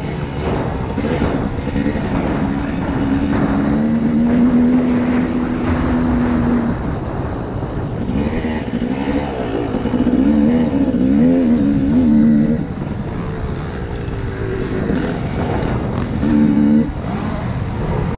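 2012 KTM 250 SX single-cylinder two-stroke dirt bike engine revving up and down as the bike is ridden. The revs are held for a couple of seconds, then rise and fall quickly, over a steady rush of wind noise.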